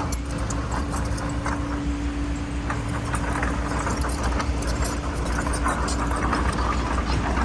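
Bulldozer's diesel engine running steadily with a low rumble and a steady hum, over irregular metallic clanks and knocks from its tracks and the stone it is working.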